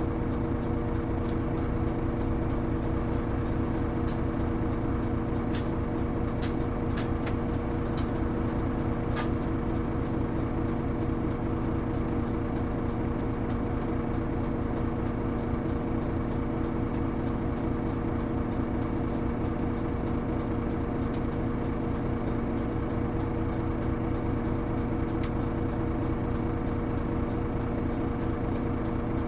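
Hino Rainbow HR city bus diesel engine running steadily, heard from inside the bus, with an even drone that holds one pitch throughout. A few sharp clicks or rattles come about 4 to 9 seconds in.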